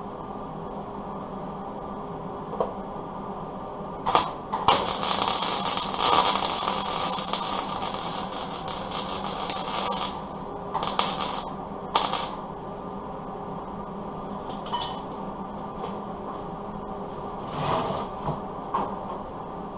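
Welder tack-welding a sheet-steel truck fender: a long crackling weld of about six seconds, then two short tacks, and a couple of fainter brief ones near the end, over a steady background hum.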